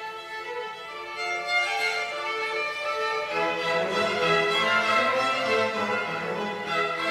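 Violin playing a sustained, singing melody, joined about three seconds in by lower accompanying notes, and the music grows louder.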